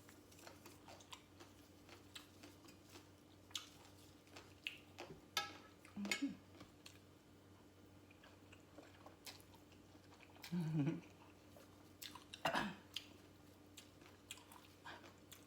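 Close-up chewing and biting of a Lao papaya salad, a run of small wet clicks and crunches, with louder moments about six, eleven and twelve and a half seconds in and a brief low hum near eleven seconds.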